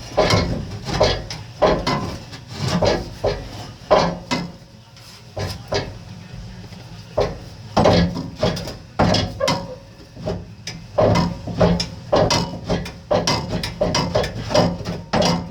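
Irregular metal clanks and knocks, about one or two a second, as the cut exhaust pipe is worked loose by hand.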